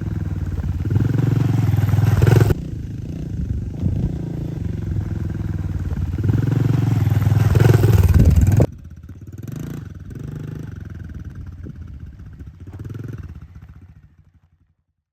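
Dirt bike engine running and revving on a trail ride, its pitch rising and falling. About two-thirds in it drops suddenly to a quieter level, then fades away near the end.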